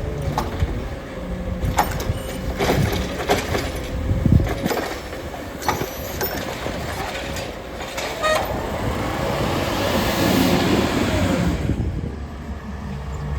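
Heil Rapid Rail side-loading garbage truck at work: a steady whine under repeated clanks and knocks, then a long hiss about ten seconds in.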